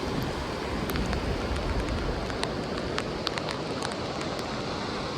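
Steady monsoon rain, with scattered drops ticking sharply close by over a low rumble.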